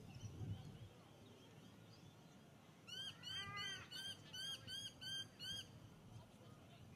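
A bird calling from a few seconds in: a run of about nine short, arched notes, about three a second, for nearly three seconds. There is also a brief low rumble in the first second.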